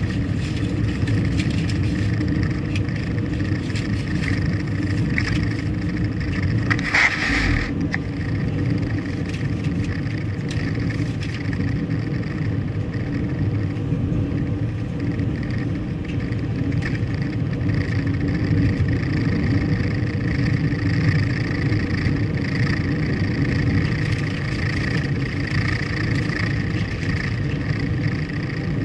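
Car on the move: steady engine and road noise, with one brief louder burst of noise about seven seconds in.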